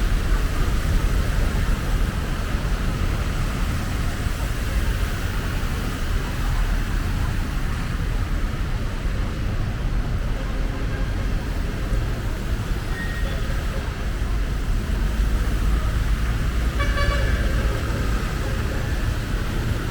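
Busy road traffic with a steady engine and tyre rumble; a vehicle horn toots briefly near the end.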